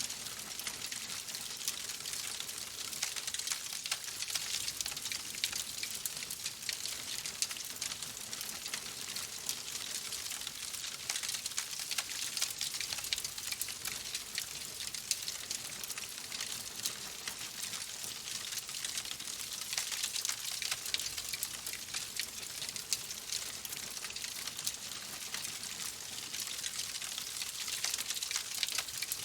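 Fireplace fire crackling steadily: a dense patter of small pops and snaps over an even hiss.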